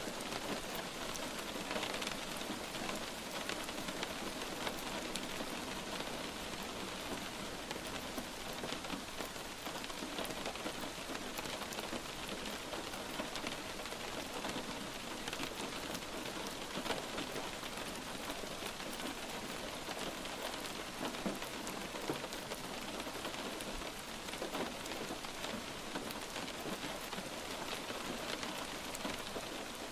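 Steady light rain, with individual drops pattering and ticking on a surface.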